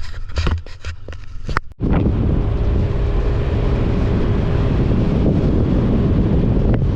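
Wind buffeting a camera microphone on a moving motorcycle: a loud, steady rush that begins abruptly about two seconds in, after a brief cut-out. Before it there is a short stretch of pitched sound broken by clicks.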